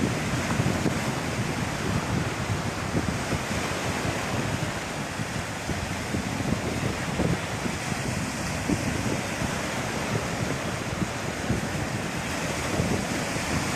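Wind-driven waves washing on a lake shore in a strong wind, with gusts buffeting the microphone.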